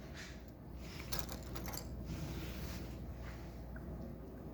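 Faint handling of LEGO pieces: a few light plastic clicks about a second in, over a low background hum.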